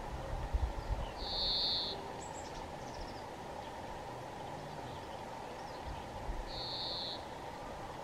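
Songbirds singing: two loud, high, level notes about five seconds apart, with fainter short chirps between them. A low rumble runs underneath.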